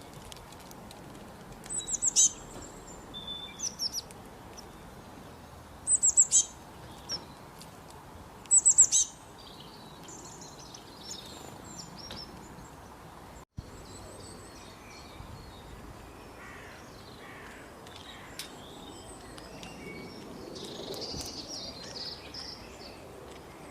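Songbirds chirping: loud clusters of rapid high chirps about two, six and nine seconds in, then fainter, scattered calls over a steady background hiss.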